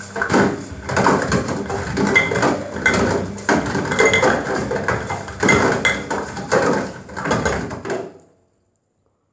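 Washing machine drum turning during a rinse, with a cardboard Pringles canister knocking and clattering around inside in a loose, repeated rhythm. It cuts off suddenly about eight seconds in.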